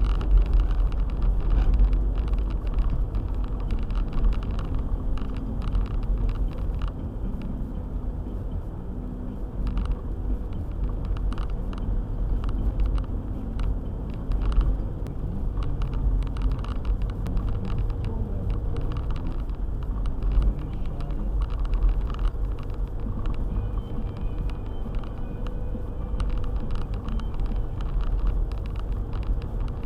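Car driving on a snowy road: a steady low rumble of engine and tyres, with many short knocks and clicks throughout.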